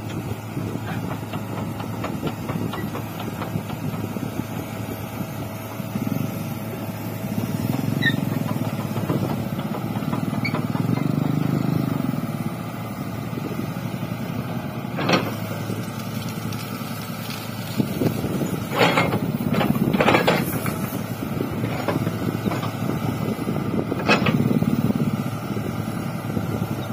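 Hydraulic excavator's diesel engine running, swelling several times as it works under load. Several sharp knocks come through it, most of them in the second half.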